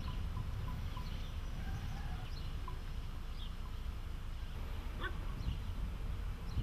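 Small birds chirping now and then, with one brief rising call about five seconds in, over a steady low outdoor rumble.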